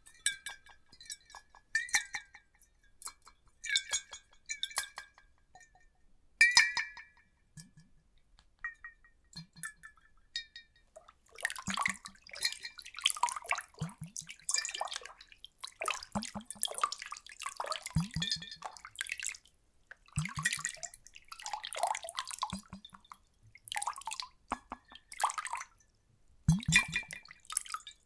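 Water ASMR: at first scattered drips and small glassy plinks, then from about eleven seconds in, repeated splashing and sloshing of water in short bursts.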